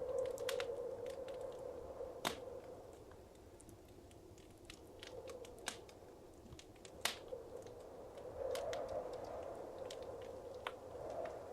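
Wood fire crackling in a fireplace: scattered sharp pops, the loudest about two and seven seconds in, over a soft rushing that swells and fades.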